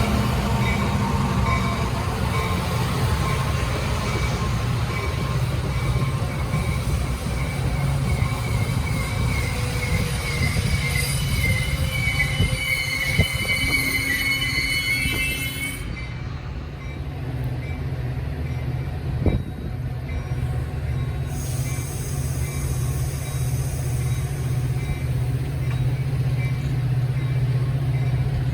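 A train rolling past with a steady low rumble. Its wheels squeal against the rails in a wavering high tone, strongest about halfway through. There are a couple of single knocks.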